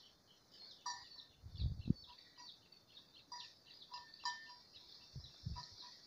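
Faint small birds chirping, many short high chirps and brief call notes. A couple of dull low thumps come about two seconds in and again near the end.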